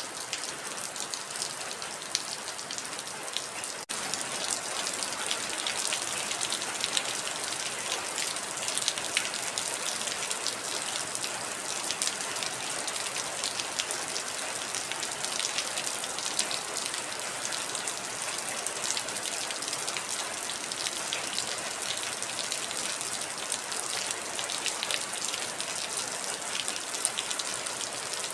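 Heavy rain falling steadily, a dense patter of drops striking a surface. A momentary cut about four seconds in, after which the rain is a little louder.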